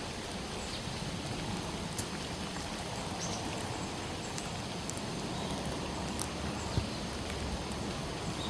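Steady rain falling, with scattered individual drops tapping sharply now and then.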